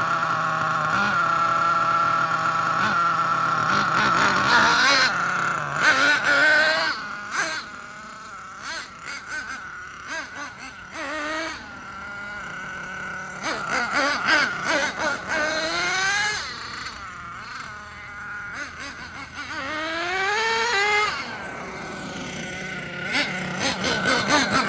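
Nitro RC monster truck's Force R36 5.9 cc two-stroke glow engine running at high, steady revs for about five seconds, then fading and swelling as the truck drives about. Several rising revs follow as it accelerates, with the two-speed transmission changing gear.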